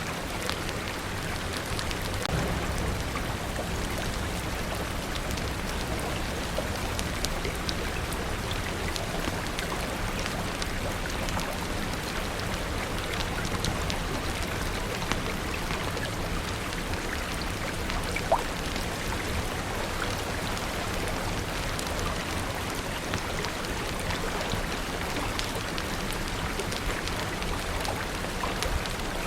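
Steady rain, an even hiss sprinkled with many small sharp drop ticks, one a little louder about eighteen seconds in.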